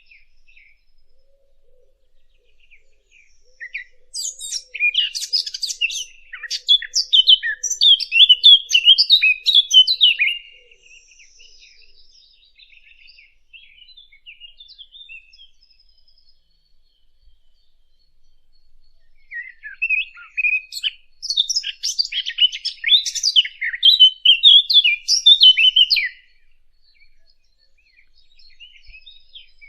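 A songbird singing two long bursts of rapid, jumbled chirps and trills, each about six seconds, with softer scattered chirps in between.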